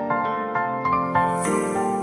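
Soft, gentle instrumental background music of piano-like keyboard notes.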